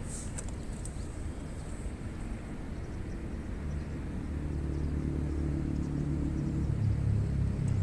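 Low engine rumble of a vehicle, swelling louder through the second half as it comes closer. A few faint high clicks near the start.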